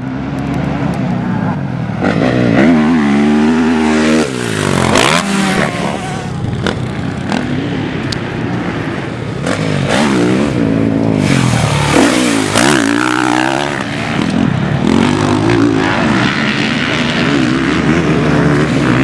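Motocross dirt bike engines revving hard, the pitch climbing and dropping again and again as the throttle is opened and shut.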